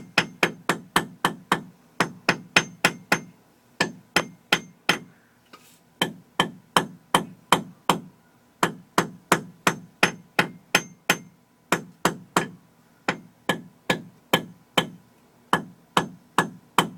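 A hammer tapping around the edge of a brass fitting on a drain pipe to free it. The taps come in quick runs of about four a second, with short pauses between runs, each with a slight metallic ring.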